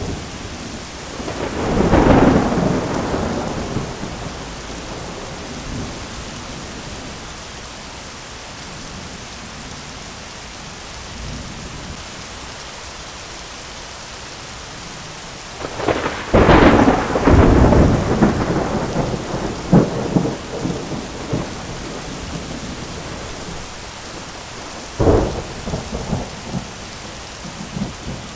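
Thunderstorm: steady rain with three peals of thunder, one about two seconds in, the loudest a long crackling peal a little past halfway, and a short sharp clap near the end.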